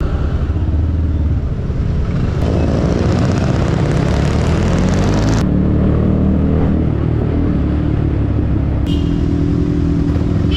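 Yamaha MT-15's single-cylinder engine running through a Yoshimura aftermarket exhaust while riding, its note climbing in pitch under acceleration through the first half, then holding steady. A rush of wind noise cuts off suddenly about halfway through.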